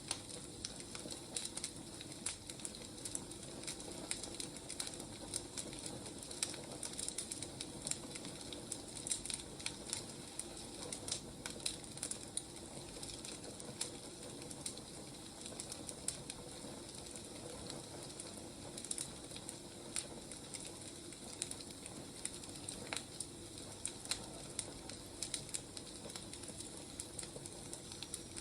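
Burning firewood crackling, with frequent sharp irregular crackles over a steady soft hiss.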